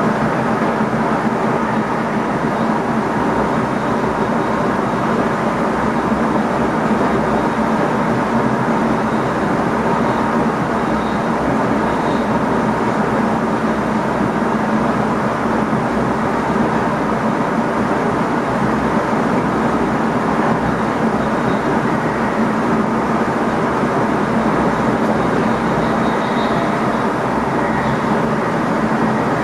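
Steady running noise inside the driver's cab of an NS ICM (Koploper) electric multiple unit: an even rumble of the train on the rails with a constant hum underneath, unchanging throughout.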